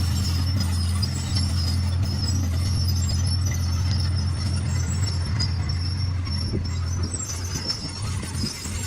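D41 bulldozer's diesel engine running steadily, with a faint high whine above its low hum; the sound eases slightly near the end.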